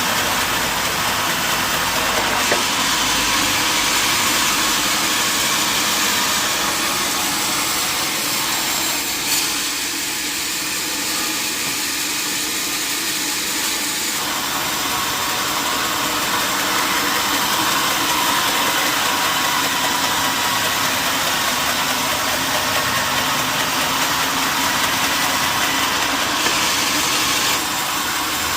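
Sawmill saw running steadily while sawing mahogany timber, a continuous dense machine noise that eases slightly for a few seconds about ten seconds in.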